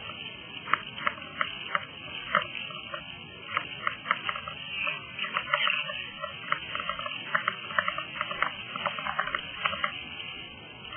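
River water gurgling and plopping against a kayak, in quick, irregular short sounds several times a second.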